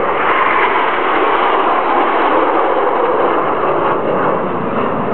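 Jet noise from the Red Arrows' BAE Hawk T1 jets flying past in formation: a loud, steady rushing sound that swells just at the start.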